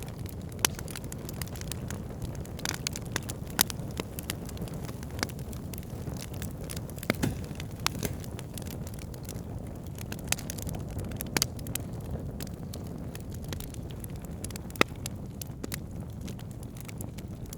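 Wood campfire burning: a steady low rush of flames with irregular sharp crackles and pops of burning wood, a few louder snaps among them.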